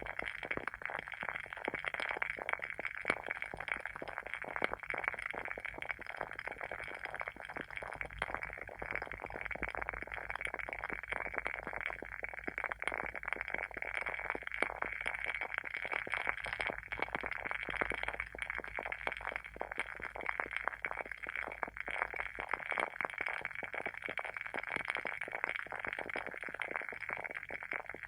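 The wooden wick of a WoodWick candle burning with a steady, rapid crackle: many small pops every second, like a tiny wood fire.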